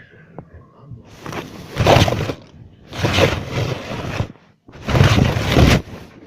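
A blanket swung hard over toys three times, each sweep a loud whooshing, rustling rush of fabric lasting about a second.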